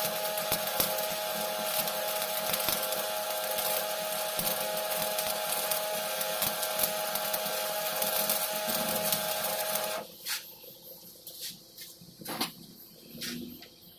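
Shielded metal arc welding with a 6013 electrode running the hot pass on carbon steel pipe: the arc crackles and sizzles steadily with a steady hum, then cuts off suddenly about ten seconds in. A few scattered clicks and knocks follow.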